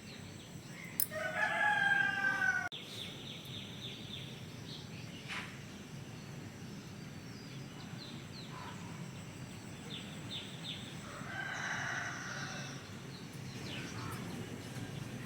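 A rooster crowing: one loud crow about a second in that cuts off abruptly, then a fainter crow near the end. Small birds chirp briefly in between.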